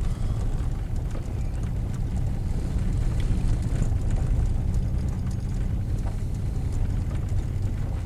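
Truck driving slowly on a rough road: a steady low engine drone and tyre rumble, with a few faint knocks and ticks from the road surface.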